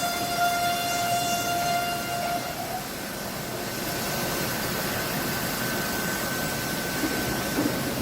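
Sawmill plank saw running through a log: a steady high whine over a noisy cutting rush. The whine drops out about two and a half seconds in, and a higher, fainter whine takes over from about four seconds.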